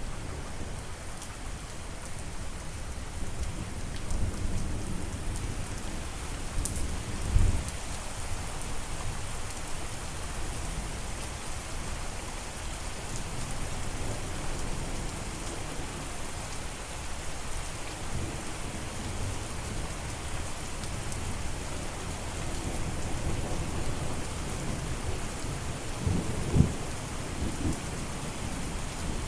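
Steady rain falling, with a low rumble beneath it and two brief louder low thumps, one about seven seconds in and one near the end.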